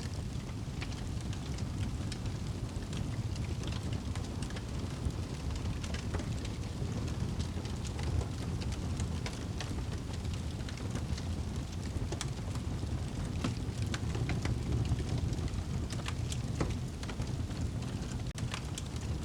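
Wood fire burning in a fireplace: a steady low rumble of flame with frequent irregular sharp crackles and pops from the burning wood.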